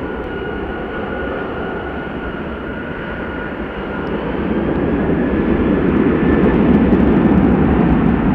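Jet airliner's engines running, a rushing roar with a thin steady whine that grows louder over the second half as the aircraft comes closer.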